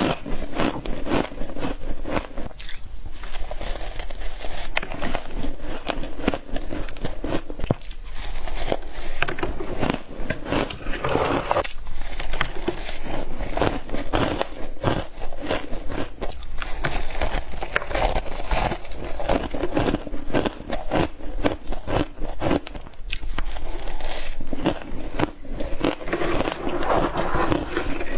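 Frost being bitten and chewed close to the microphone: a dense run of crisp, crackling crunches.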